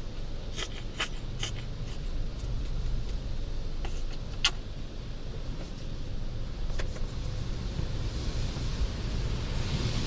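Steady low rumble of a touchless automatic car wash bay heard from inside a car, with a few sharp ticks: a cluster in the first second and a half and single ticks later on. A hiss begins to build near the end.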